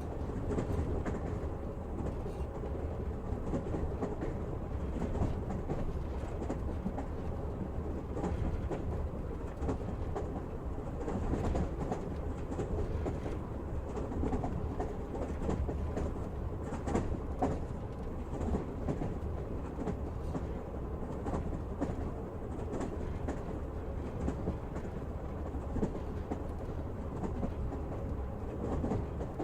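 Passenger train running steadily, heard from inside the carriage: a low rumble with the clatter and clicking of the wheels on the rail joints.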